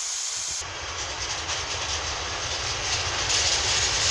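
Long freight train of open coal wagons setting off again after a short stop, the wagons rolling along the track with a low rumble and a steady hiss that grows slightly louder.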